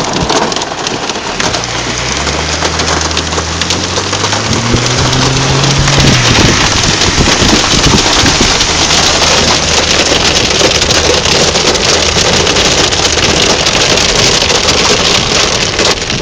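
Heavy rain or hail pelting a moving car, with the car's engine rising in pitch as it accelerates from about a second and a half in to about six seconds, then running steadily.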